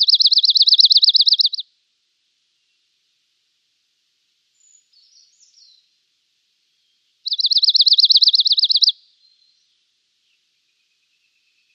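Dark-eyed junco singing: two rapid, even trills of identical repeated notes on one pitch, each about a second and a half long, the first at the start and the second about seven seconds in, with a few faint soft notes between them.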